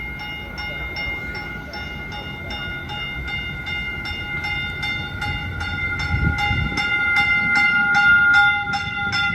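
Caltrain Stadler electric multiple-unit train arriving at the platform, its bell ringing about four strokes a second over the train's low rumble, which grows louder toward the end.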